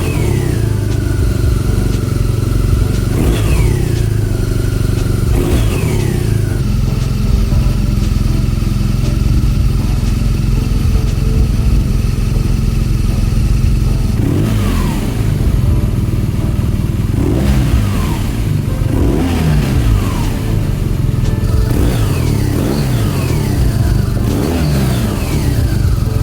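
BMW R nineT's boxer twin with an Akrapovic exhaust, idling and blipped about ten times. Each blip's revs spike and fall back to idle, with a steady idle stretch in the middle.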